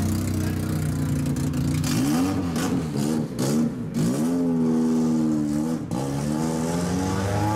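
Car engine running steadily, then revved in several quick throttle blips, then held at a higher rev for over a second before dropping off about six seconds in, with another rise in revs near the end.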